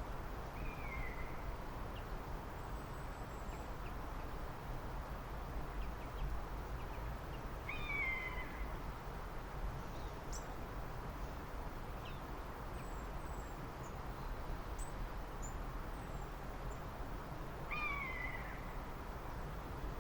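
Wild birds calling: a clear downward-slurred call comes three times, about ten seconds apart, with faint high chips between, over a steady low background noise.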